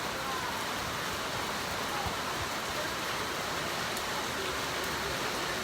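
Heavy rain falling steadily, with water pouring off the edge of a roof that has no gutter into buckets.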